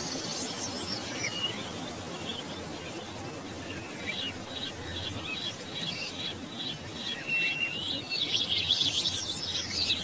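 Small birds chirping and twittering in a run of short high calls, with a brief steady whistled note about seven seconds in and a denser, louder burst of chirping near the end.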